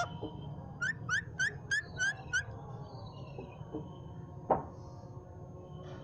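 Pet green parrot giving a quick run of six short rising whistled chirps, about three a second. A couple of seconds later comes a single sharp click, the loudest sound of the stretch.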